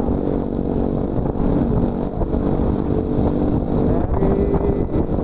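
Motorcycle engine running steadily under way, with a constant low rumble.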